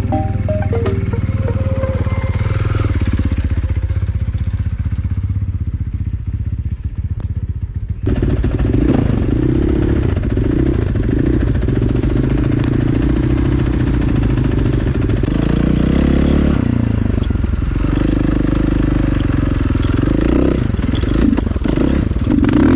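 Single-cylinder four-stroke dirt bike engine (KTM 500 EXC) running and revving up and down while riding. It becomes suddenly louder about eight seconds in.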